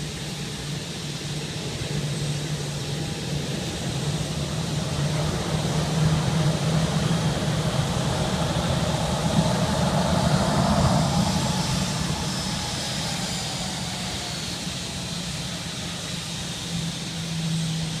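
Jet whine from a Boeing 737-700 BBJ's CFM56-7 turbofan engines at taxi power. It grows louder to a peak about ten seconds in, and its pitch falls as the jet passes, then it fades.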